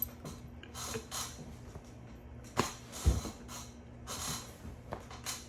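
Quiet room noise with a faint steady hum and a few soft knocks and rustles, the clearest about two and a half and three seconds in.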